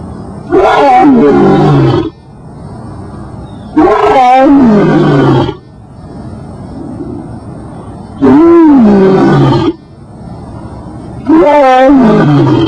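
A large wild animal roaring: four long calls, each about a second and a half, wavering and falling in pitch, a few seconds apart.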